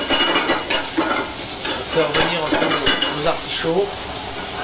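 Artichoke hearts sizzling steadily in a copper sauté pan, with a wooden spatula stirring and scraping them against the pan in short strokes.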